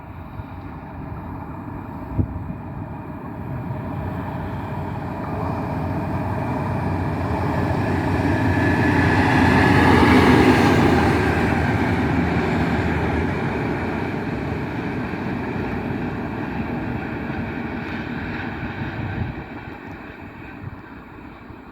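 A locomotive running light, with no wagons, passes by. Its engine and wheels build up to the loudest point about halfway through, then fade away.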